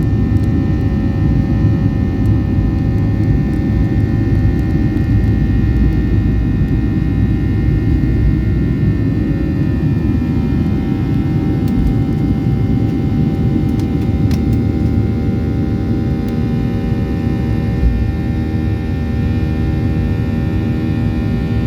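Cabin noise of a Boeing 737-800 in flight: the CFM56-7B jet engines give a steady, loud rumble with several steady whining tones over it, easing slightly near the end.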